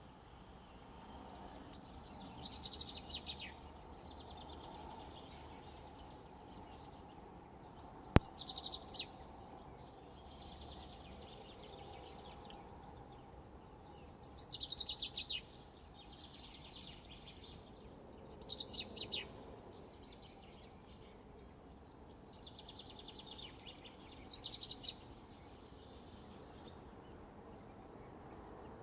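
A songbird singing the same short phrase over and over, every few seconds; each phrase is a quick run of high notes that drops in pitch at the end. A single sharp click sounds about eight seconds in.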